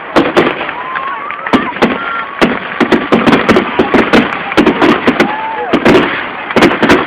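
Fireworks going off in rapid succession: many sharp bangs and pops, several a second, over a continuous crackling din.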